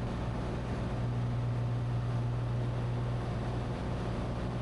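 Cessna 182T's six-cylinder Lycoming engine and propeller droning steadily in flight: a constant low hum under airflow noise, with no change in power.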